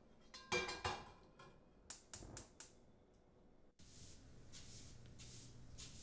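A metal cooking pan clatters and rings against the stove, followed by a quick run of four or five sharp clicks. A steady, softly pulsing hiss then takes over.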